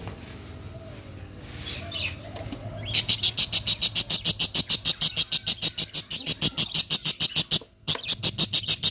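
Cockatiel chicks calling in a rapid, even run of short high calls, about five a second, starting about three seconds in, with a brief break near the end.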